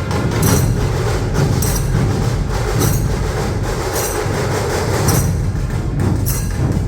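A dhol-tasha ensemble playing: many big dhol drums keep up a dense, continuous pounding rhythm under the sharp rattle of tasha drums, with loud accented strikes about once a second.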